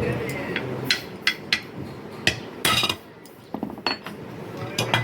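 Metal tools and parts clinking and knocking against each other, about half a dozen sharp separate clinks with a short scraping rattle near the middle.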